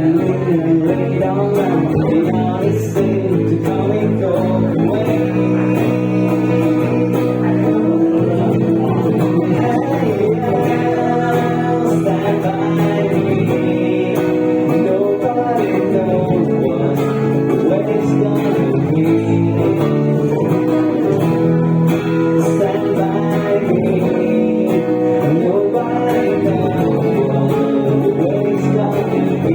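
Music: acoustic guitar strummed steadily, with a singing voice.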